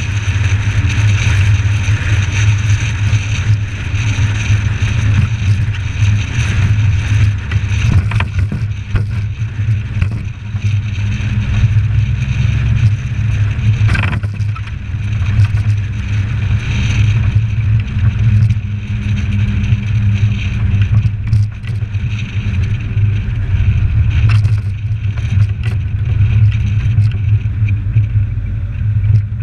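Suzuki Samurai's engine running with tyre and road noise while driving, a steady low drone, with a few sharp knocks along the way.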